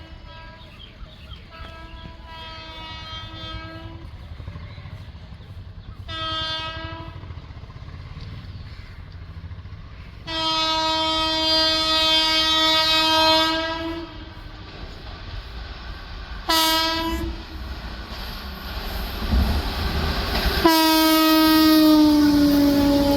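WAP-4 electric locomotive's horn sounded repeatedly as the train approaches at speed: a faint blast, a longer one, a short one, a long loud blast, another short one, then a long loud blast whose pitch drops as the locomotive passes. The rumble and clatter of the train on the track builds through the last few seconds.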